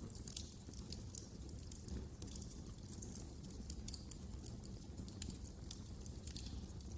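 Wood fire crackling in a fireplace: many quick, irregular snaps and pops over a steady low rumble.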